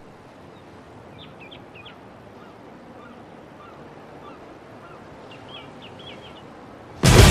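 Faint bird calls, a few short high calls about a second in and another cluster near six seconds, over a steady hiss. Near the end, loud heavy-metal electric guitar music cuts in suddenly.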